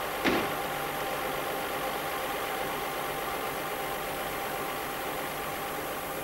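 Vintage saloon car's engine idling steadily, with a single short knock just after the start.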